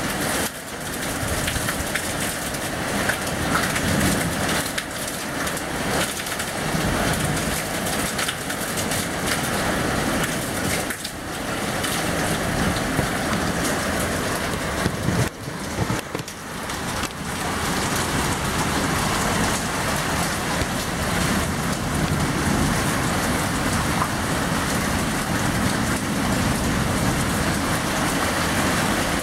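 Rain falling steadily during a storm, a dense even hiss of water on surfaces, with the level dipping briefly twice in the middle.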